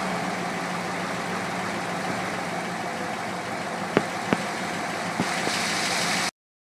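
1957 Ford Thunderbird's V8 engine idling steadily, with a few sharp clicks about four to five seconds in. The sound cuts off abruptly near the end.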